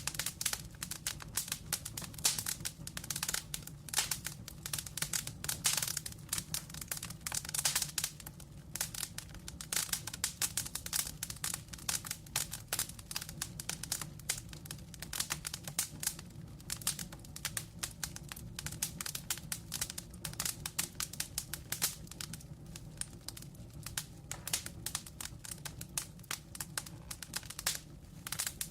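Wood fire crackling: a dense, irregular stream of sharp pops and snaps over a low, steady rumble of flame.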